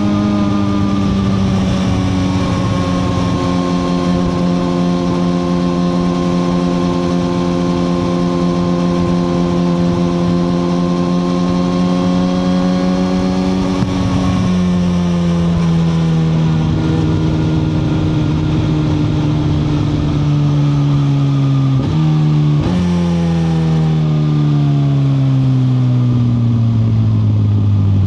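The inline-four engine of a 2021 Suzuki GSX-R1000R sportbike running under way, its pitch holding nearly steady and then falling as the bike slows. A quick gear change a little after two-thirds through steps the revs up briefly, consistent with a downshift.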